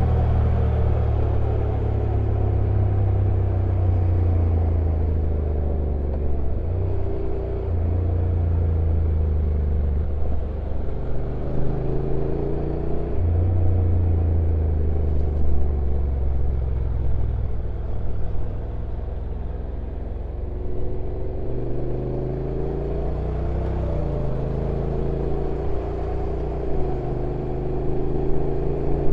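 Honda NC750X's parallel-twin engine running on a downhill ride, heard from on the bike. Its low note rises and falls in pitch several times as engine speed changes.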